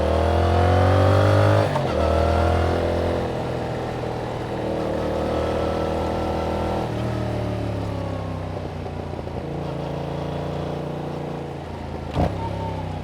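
Yamaha MT-07's parallel-twin engine through its stock exhaust, pulling up through the gears: the revs climb, drop at a shift just under two seconds in, climb again, then settle and ease off. A single sharp knock sounds near the end.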